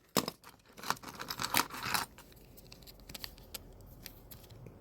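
Small plastic toy parts being handled and fitted together: a sharp click, then a quick run of clicks and rustling, then scattered lighter clicks.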